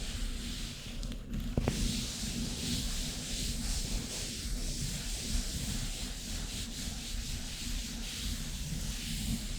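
Hands rubbing and brushing together close to the microphone, a continuous dry rustling with one sharp tap about one and a half seconds in.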